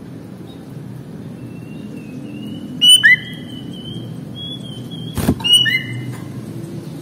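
Sooty-headed bulbul (kutilang) singing: two loud, short, clear whistled phrases about three and five and a half seconds in, over a thin high whistle held for a few seconds. A sharp knock comes just after five seconds, over a steady low hum.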